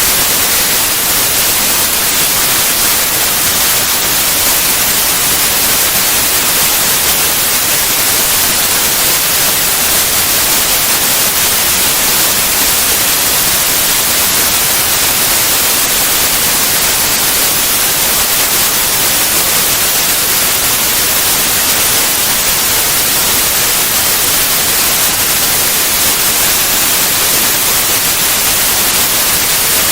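Steady synthetic white noise: an even, loud hiss, strongest in the treble, with no changes.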